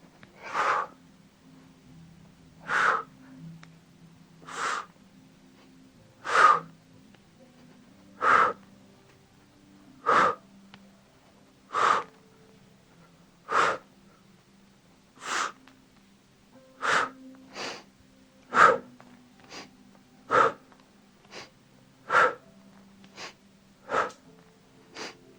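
A person breathing in short, sharp, forceful breaths, about one every two seconds, with extra smaller breaths slipping in between toward the end. This is paced breathing through an exercise hold.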